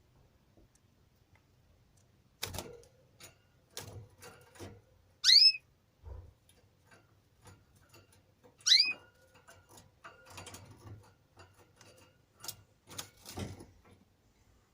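A small cage bird gives two loud, sharp chirps about three seconds apart, each a quick sweep in pitch, among scattered light clicks and knocks from the aviary.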